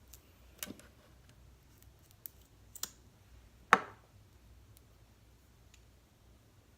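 A few sharp, scattered clicks and taps of makeup products and tools being handled, the loudest a little past the middle, typical of a concealer tube being opened and a brush being picked up.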